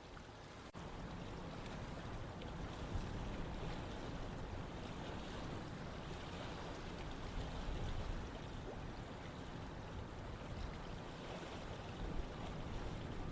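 Running water rushing steadily, with a deep low rumble under the hiss. A brief dropout comes a little under a second in, after which the rush is slightly louder.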